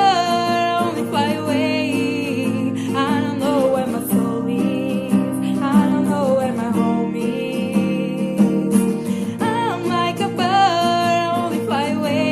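A singer vocalising a melody over acoustic guitar accompaniment.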